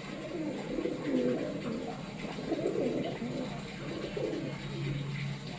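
Pigeons cooing, with repeated low coos that overlap one another.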